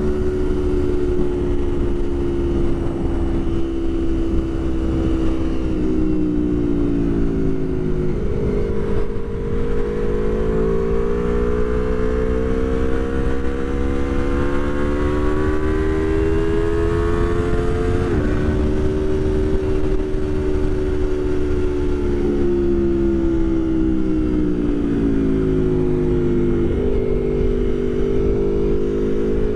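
Aprilia Tuono V4 1100 Factory's V4 engine under way in traffic, its note rising with the throttle and dropping sharply several times at gear changes. It is heard through a helmet microphone, with wind noise underneath.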